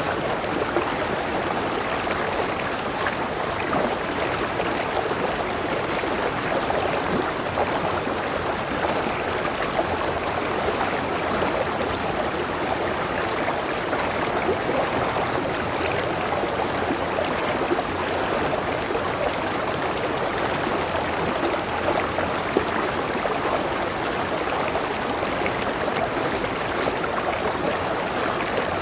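Clear river water flowing steadily over rocks, an even, continuous babbling rush with no change in level.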